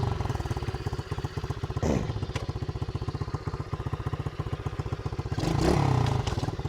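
SSR 110 pit bike's small single-cylinder four-stroke engine idling with a rapid, even putter. The throttle is blipped about two seconds in and revved again near the end, the pitch rising and dropping back each time.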